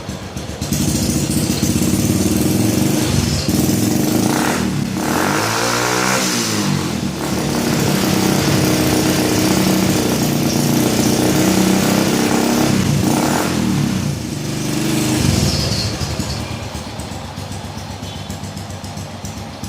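Honda Supra Fit X motorcycle's four-stroke single-cylinder engine revving through an aftermarket exhaust whose muffler chamber has been hollowed out. The revs go up about a second in, rise and dip several times, then drop back to idle near the end.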